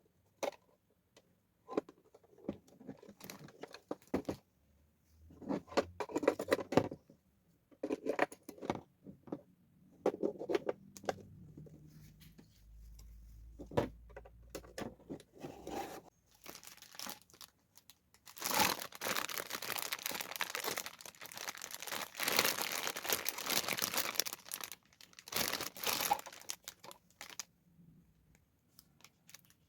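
Packaging crinkling and tearing, with scattered clicks and knocks of handling; a long stretch of dense crinkling and tearing comes about two thirds of the way in.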